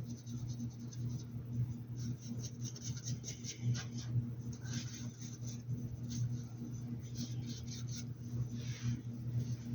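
Paintbrush strokes brushing and dabbing across a hat, a quick run of short scratchy strokes, over a steady low electrical hum.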